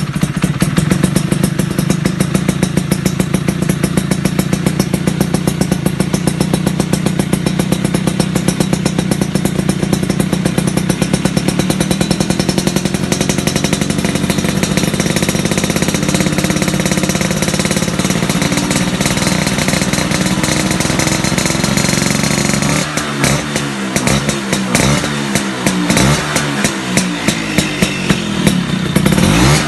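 Vespa PX two-stroke single-cylinder engine idling through an aftermarket racing exhaust with a steady, fast pulsing beat. About 23 seconds in, the throttle is blipped over and over, the pitch rising and falling with each rev.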